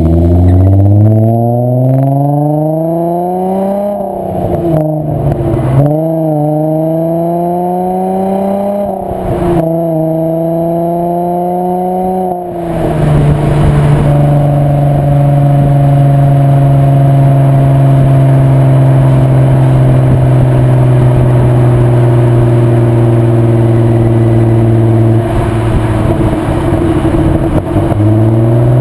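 VW Jetta mk4 2.8 VR6 24V engine through a Milltek non-resonated exhaust, accelerating hard with its pitch climbing and dropping at each upshift, three or four times over the first dozen seconds. After that it settles into a steady cruising drone that slowly falls in pitch, with a short change near the end.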